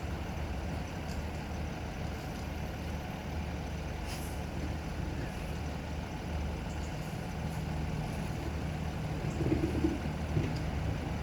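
Vehicle engines idling in a steady low rumble, with a brief louder flutter near the end.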